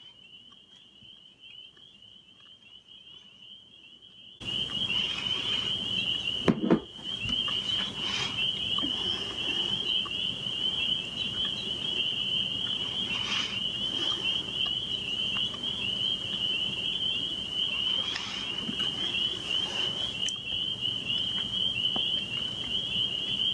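Crickets chirping sound effect: a steady, high, wavering trill over a faint hiss. It cuts in abruptly after about four seconds of quiet, with a single thump a couple of seconds after it starts.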